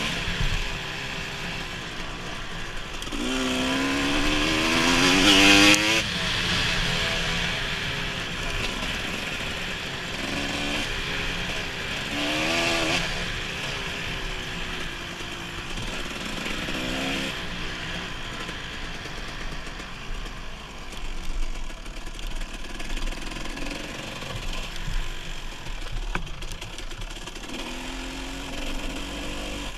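Dirt bike engine revving up and easing off repeatedly while riding, with the pitch climbing. The longest, loudest rev comes about three to six seconds in, and shorter ones follow later.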